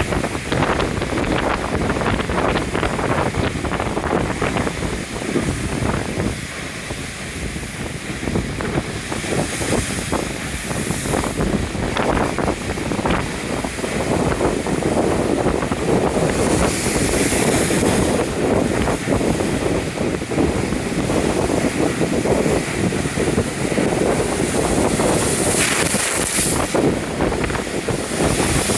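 Storm-force wind buffeting the microphone over the steady rush of Lake Michigan surf, with a few surges of hissing spray as waves break.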